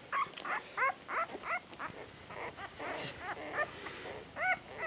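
Eight-day-old puppy squeaking in a string of short, high, rising-and-falling squeaks, a pair near the end, while it is apart from its mother and crawling back to her.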